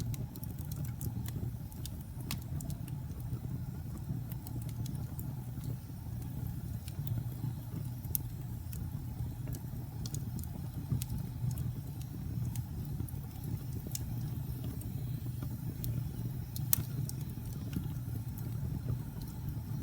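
Wood fire burning in a fireplace: a steady low rumble of flames with scattered crackles and pops, one louder pop about three seconds before the end.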